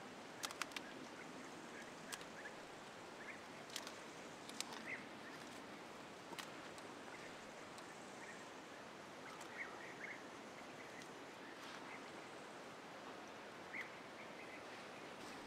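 Quiet woodland ambience: a steady hiss with a few sharp clicks and ticks, bunched in the first half, and faint short chirps now and then.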